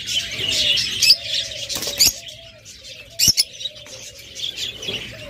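A roomful of caged pet birds chirping, with a low wavering cooing call underneath. A few sharp knocks or wing-flaps come about 1, 2 and 3 seconds in.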